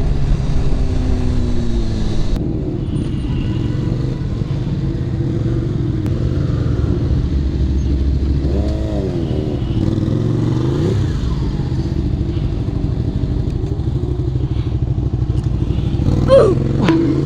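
Honda CBR600RR inline-four motorcycle engine running under way, with a steady rush of road noise. About halfway through, the engine pitch rises and falls. Near the end there is a short, louder burst.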